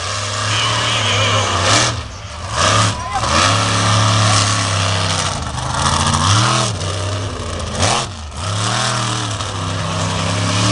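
Monster truck engine revving hard, its pitch climbing and falling with several sharp throttle lifts.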